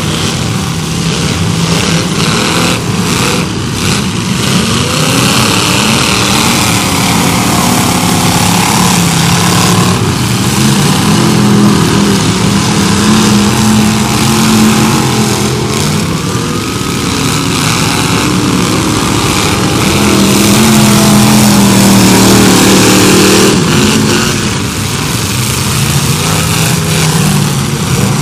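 Several demolition-derby cars' engines revving hard at once, their pitches rising and falling as the cars drive and ram each other, with a few bangs from collisions.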